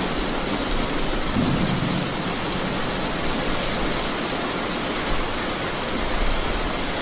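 Steady rain hissing evenly, with a low rumble of thunder in the first couple of seconds that dies away.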